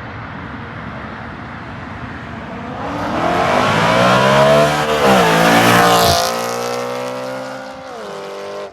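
BMW E93 M3's V8 through a catless resonated X-pipe exhaust, accelerating hard. The high-pitched exhaust note climbs with the revs, dips briefly about five seconds in, then falls back to a steadier note for the last couple of seconds.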